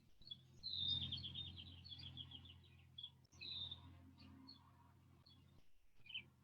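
A songbird singing outdoors: a phrase about a second in that starts on a high note and breaks into a quick run of short notes, a second phrase a few seconds later, and scattered chirps, over a faint steady low rumble.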